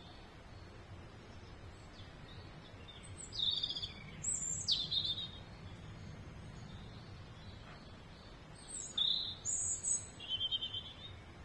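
Small songbirds chirping in two short bursts of high chirps, one a few seconds in and another near the end, over a steady low background rumble.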